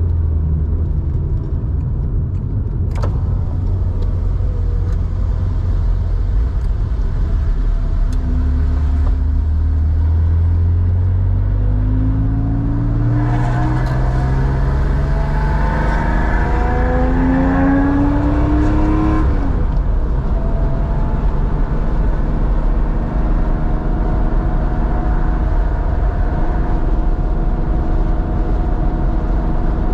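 1987 Porsche 911's 3.4-litre air-cooled flat-six through a Scart two-in-one-out muffler, running steadily, then pulling hard with its pitch climbing for about ten seconds before dropping back sharply as the throttle eases off, settling to a steady cruise.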